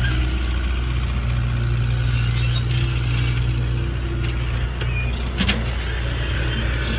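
Hitachi mini excavator's diesel engine running steadily, with a few short sharp knocks from the working machine partway through.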